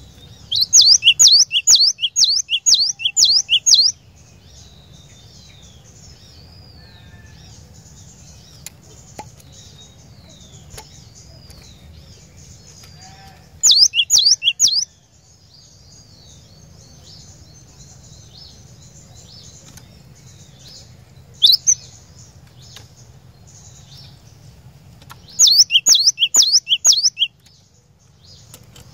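Cinereous tit (glatik batu) singing: bouts of rapid, sharp, high-pitched repeated notes, four bouts in all, one very short, with fainter calls between them over a low steady background hum.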